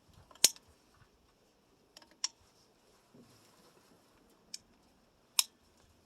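Four sharp clicks, unevenly spaced, the first and last the loudest.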